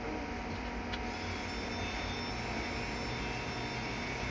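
Steady machine drone in a workshop, with a faint high whine that sets in about a second in.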